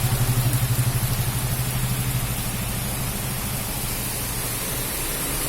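Rain falling in a steady hiss, with a vehicle engine running low and pulsing underneath that fades away over the first few seconds.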